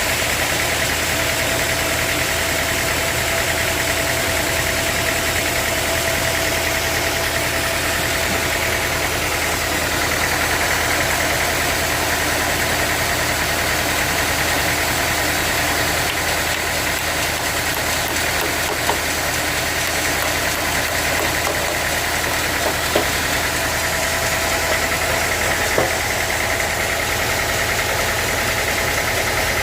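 Sawmill machinery running steadily: an engine-like drone with a higher whine above it, broken by a few short sharp knocks in the second half.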